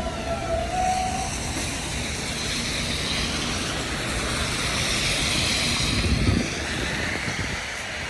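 Elevated subway train running on the overhead track, a steady rumble and hiss of wheels on rail with a faint motor whine in the first second. A brief louder knock comes about six seconds in.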